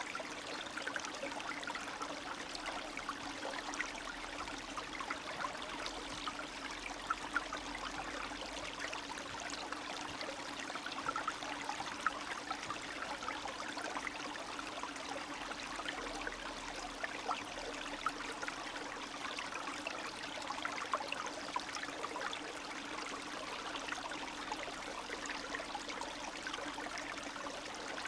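Spring stream of snowmelt water trickling and babbling steadily, with many small splashes and gurgles.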